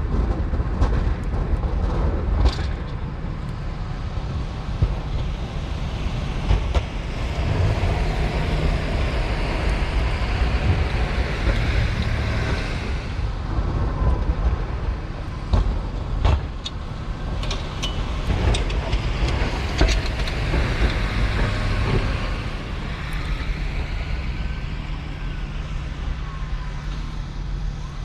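Duramax 6.6-litre turbo-diesel V8 of a Silverado 2500HD pickup running steadily as the truck pushes snow with a front plow, with several sharp clunks and knocks along the way.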